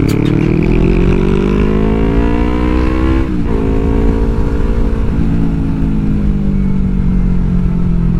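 Yamaha R3's parallel-twin engine pulling hard, rising in pitch for about three seconds, then dropping suddenly at an upshift. It climbs a little more, then eases off and winds down slowly, over a low rumble.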